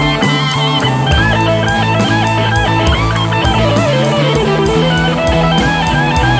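Rock music: a lead electric guitar playing bending, wavering melodic lines over bass and a steady drum beat.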